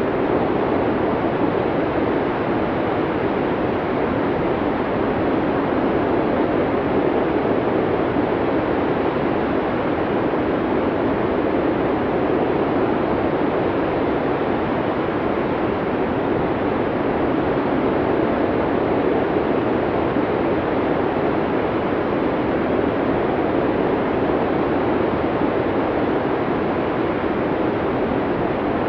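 Blizzard wind blowing steadily, an even rushing noise with slight slow swells in level and no distinct gusts or whistles.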